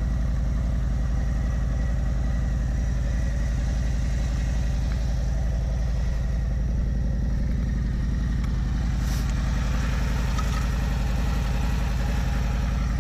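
Harley-Davidson Electra Glide Ultra Limited's V-twin engine idling steadily.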